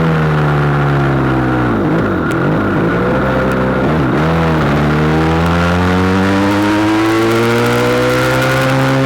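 SBM400s motorcycle engine under way: its revs fall over the first two seconds, dip and recover briefly twice, about two and four seconds in, then climb steadily as it accelerates.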